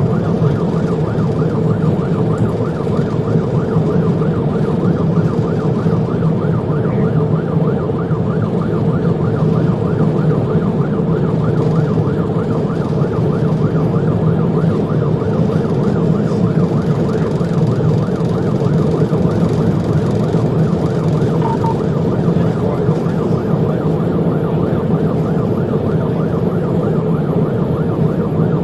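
Police car siren in a fast, continuous warble, over steady engine and road noise from the cruiser in pursuit.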